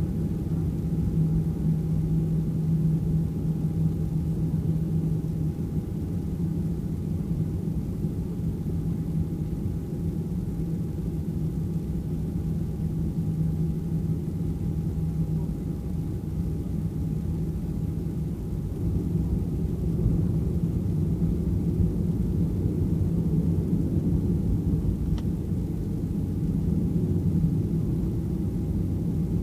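Cabin noise inside a Boeing 737 taxiing: a steady low rumble from the engines at taxi power and the rolling airframe, with a faint steady whine above it.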